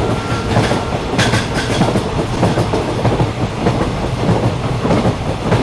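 Train running along the rails, heard from on board: a steady loud rumble with continual rattling and clickety-clack of wheels over the track. A brief high hiss cuts in about a second in.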